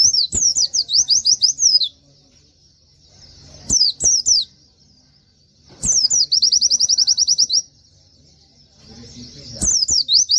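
Pleci (white-eye) singing in four loud bursts of quick, high whistled notes. The third burst is a fast, even trill of about twenty notes.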